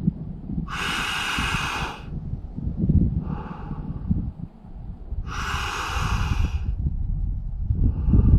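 A man's deep, deliberate breathing against the cold shock of an ice bath: two long, loud hissing breaths about four seconds apart, with softer breaths between them, over a low rumble.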